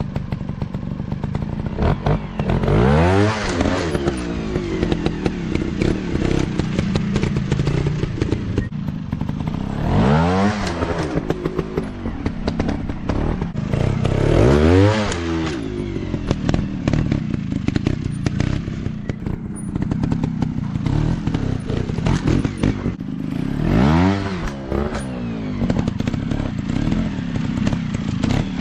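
Dirt bike engine running, its pitch rising sharply and falling back four times as the throttle is opened hard and released.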